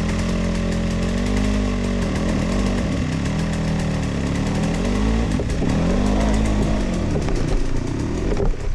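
Sherco 300 two-stroke enduro motorcycle engine being ridden on a trail, its revs climbing and dropping over and over, about once every second and a half as the throttle is worked.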